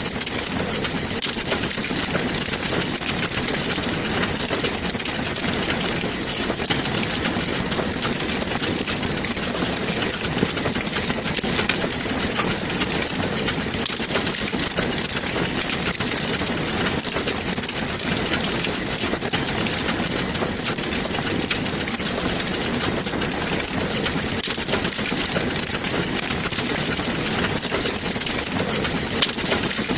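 Wood fire crackling in a fireplace: a steady hiss dense with small snaps and the odd louder pop.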